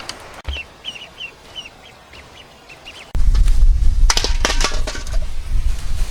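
Waterfowl calling: a quick run of about eight short, high calls. About three seconds in, a loud low rumble of wind on the microphone cuts in, with a few sharp noisy bursts a second later.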